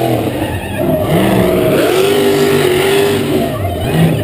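Supercharged V8 drag car engine revving hard. The pitch climbs about halfway through, holds steady, then dips and rises again near the end.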